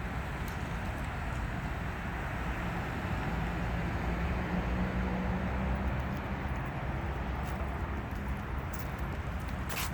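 Steady traffic noise with a low engine hum, and a short sharp click near the end.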